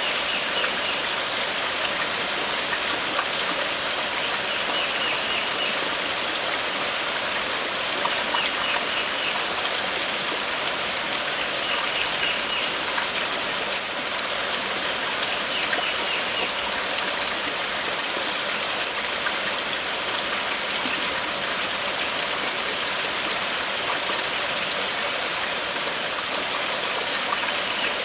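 Steady rain falling, an even hiss, with a faint short high call repeating every few seconds.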